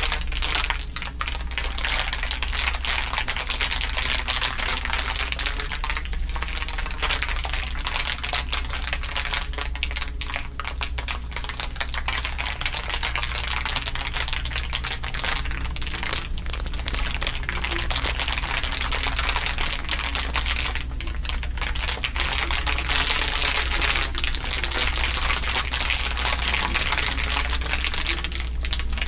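Layered crinkling: many overlapping crinkle sounds forming a dense, continuous crackle of fine clicks, with a steady low hum underneath.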